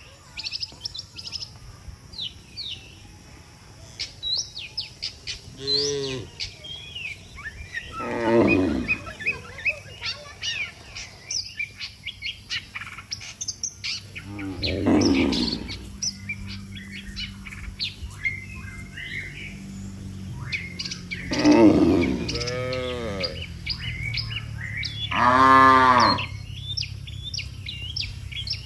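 Cattle mooing: five long, low calls spaced several seconds apart, with many small birds chirping.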